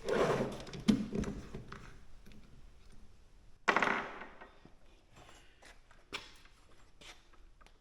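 Knocks and clatter of workshop pieces being handled and set down: a loud burst with a sharp knock at the start, another about halfway through, then a few lighter taps.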